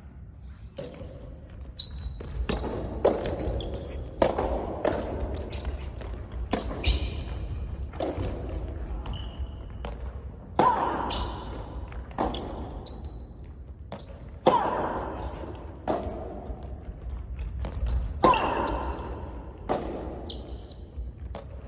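Soft tennis rally in a large hall: a soft rubber ball struck by rackets and bouncing on the court, a run of sharp hits about once a second with echo after each, and short high squeaks in between.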